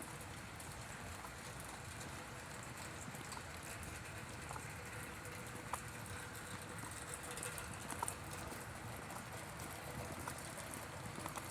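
Steady hiss of rain falling outdoors, with a few scattered light clicks.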